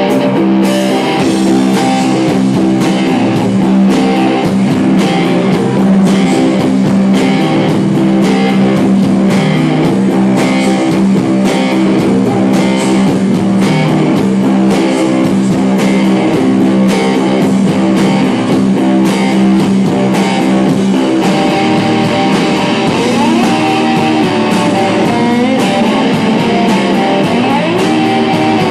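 Rock band playing an instrumental passage with no vocals: electric guitars over a steady beat, and sliding guitar notes in the last few seconds.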